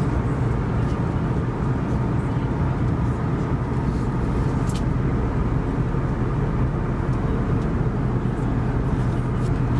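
Steady cabin noise of an Airbus A321neoLR airliner in flight: an even rush of airflow over a low engine drone.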